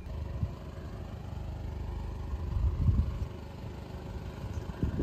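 Car engine running and revving as the car strains to get up a soft sandy track, swelling louder about halfway through.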